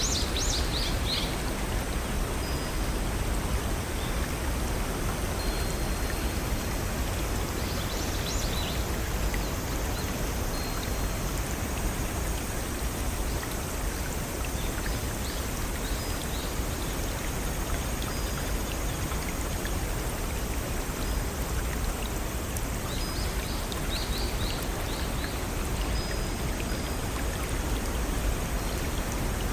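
Small waterfall and brook running steadily, with a bird chirping briefly a few times above the water.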